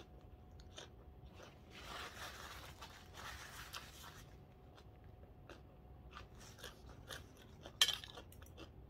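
Faint, close-up chewing of crunchy raw vegetables, with scattered small clicks. A soft rustle of hands being wiped with a tissue comes about two to four seconds in, and a single sharp click near the end.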